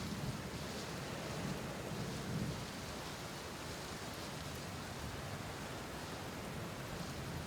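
Steady rainfall, with low rumbles of distant thunder swelling at the start and again about two seconds in.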